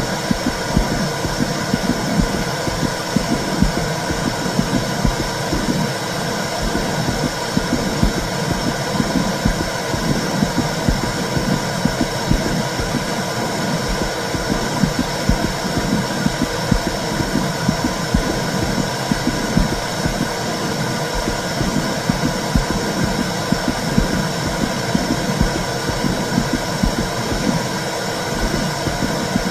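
Womb sound for soothing a baby: a steady, low rumbling noise that swells slightly and irregularly in loudness.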